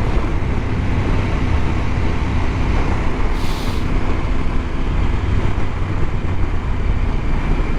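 Wind rushing over the microphone on a moving Husqvarna Norden 901 motorcycle, its parallel-twin engine running steadily underneath. A short hiss comes in about three and a half seconds in.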